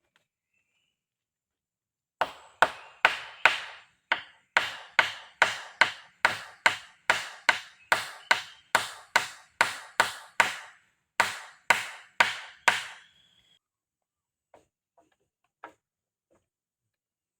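Rapid series of chopping blows on wood, about two to three strikes a second for some ten seconds with one short break, followed by a few faint knocks.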